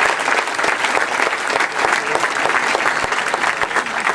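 Large audience applauding: steady, dense clapping from many hands.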